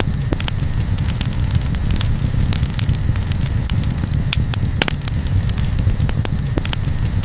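Wood campfire crackling, with irregular sharp pops scattered over a steady low rumble.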